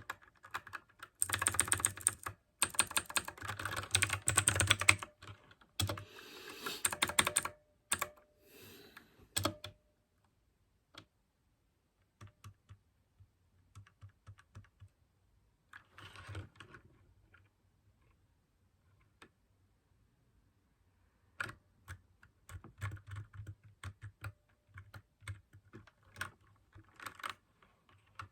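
Mechanical keyboard with clicky blue switches being typed on: a fast run of keystrokes for the first several seconds, then scattered single key clicks, then steady typing again about two-thirds of the way in.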